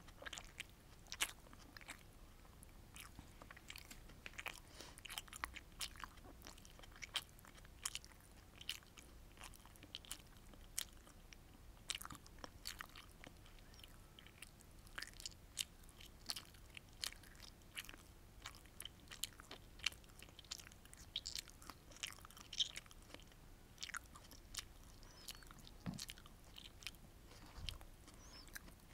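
Close-miked chewing and mouth sounds of someone eating sweet and sour fish with rice, heard as many small, sharp, irregular clicks.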